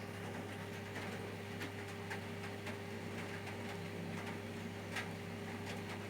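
Quiet room tone: a steady low electrical hum with a few faint, irregular ticks, the clearest about five seconds in.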